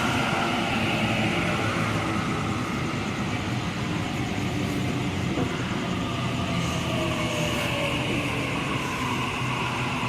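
Sydney Trains Waratah electric train pulling into the platform, a steady rumble with a faint falling whine partway through as it slows.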